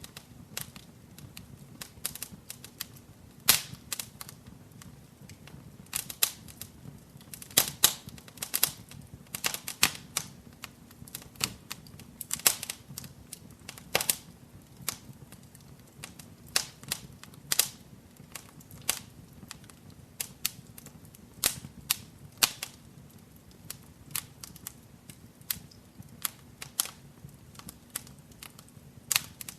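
Wood fire crackling in a fireplace: irregular sharp pops and snaps, several a second at times, over a low steady rumble of the flames.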